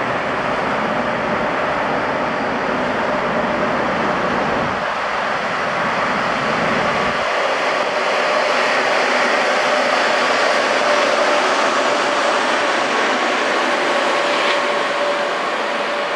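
TGV Duplex double-deck high-speed train passing: a steady rolling noise of wheels on rail with a steady whine riding over it, growing a little louder about halfway through as the power car goes by.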